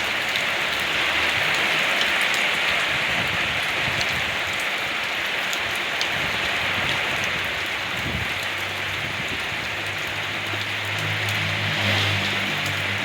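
Steady rain falling, an even hiss with scattered drop ticks. In the last few seconds a low, steady motor hum joins in under the rain.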